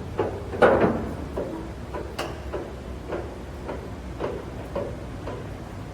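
Metal clanks from the manual door and latch of an SP Industries VB-60 vertical cardboard baler, repeating about twice a second and fading away. A steady low hum runs underneath.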